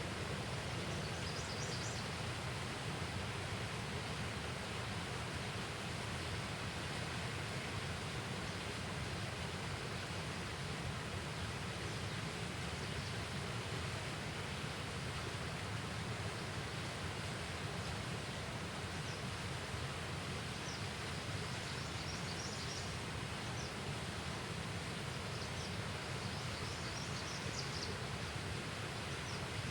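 Steady outdoor ambient noise, an even rushing hiss, with a few faint high chirps now and then.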